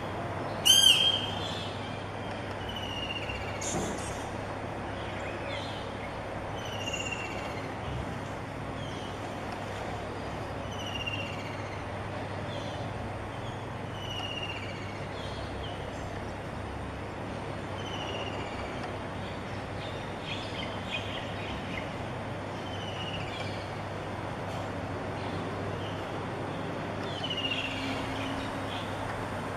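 A bird calling over and over, a short falling whistle roughly every two seconds, over a steady background hum. A louder, harsher call sounds about a second in.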